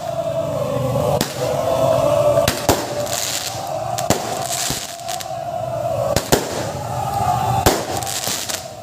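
Fireworks going off in sharp, irregular bangs, about seven of them, over a steady background din.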